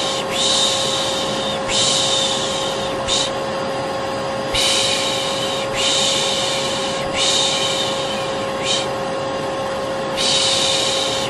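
A vacuum cleaner running steadily under a person's rhythmic shushing for a baby: long "shhh" sounds of about a second each, in groups of two or three, each group ended by a quick short "sh".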